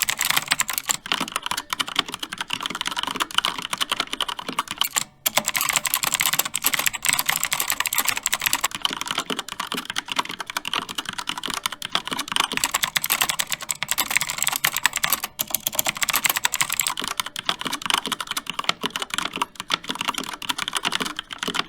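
Mechanical keyboard being typed on fast and steadily, a dense run of key clicks and clacks with a short pause about five seconds in.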